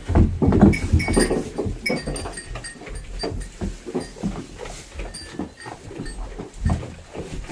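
Farm animals moving about, making a dense run of short rustles and clicks, loudest in the first second or so.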